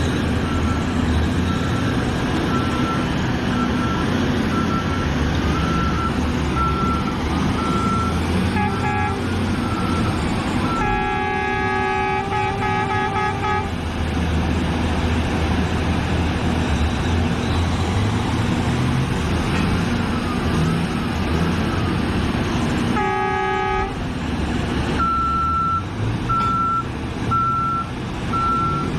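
Liebherr excavator's diesel engine running steadily under work, with a repeating warning beep. A horn sounds twice, a long blast about eleven seconds in and a shorter one later.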